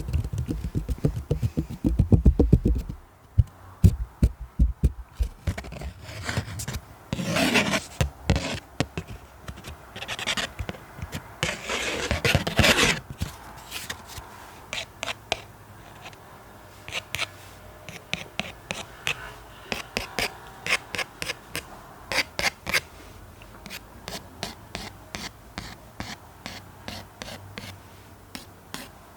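ASMR triggers made by hand on an object's surface: rubbing and scratching strokes in the first half, then a run of quick, light taps and clicks.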